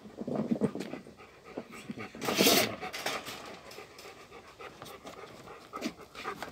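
Central Asian Shepherd Dog (alabai) panting, with one louder burst of noise about two and a half seconds in.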